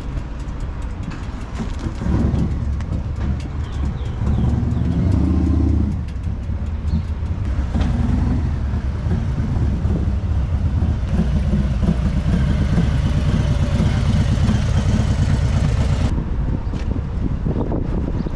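Harley-Davidson motorcycle engine running at road speed, with wind and road noise; the engine note swells briefly about four to six seconds in.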